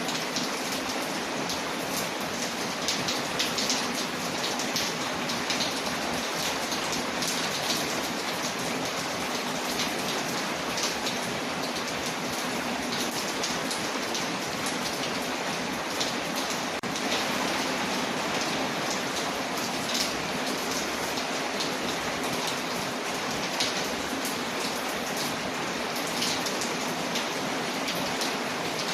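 Steady rain falling against a window, mixed with a wood fire crackling in a fireplace: an even rush with many scattered sharp ticks and pops throughout.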